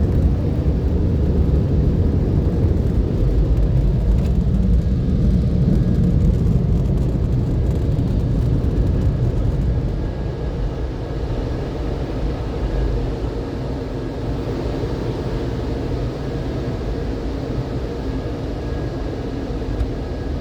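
Car wash tunnel dryer blowers running with a loud, steady rumble, dropping a little about halfway through.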